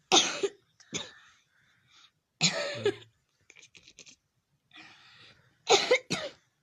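A run of short, loud, hoarse coughs with uneven gaps between them: one at the start, a shorter one about a second in, a longer one around two and a half seconds, and a double cough near the end.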